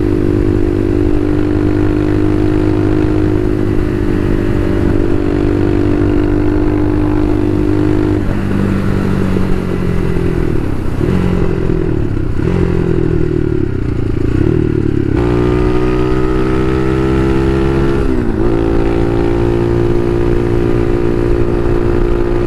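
Bashan Motomax 250 supermoto's single-cylinder engine under way, heard from on the bike. It holds steady revs, then from about eight seconds in the revs fall and pick up several times. About fifteen seconds in they climb sharply under throttle, dip once briefly near eighteen seconds, and settle into a steady cruise.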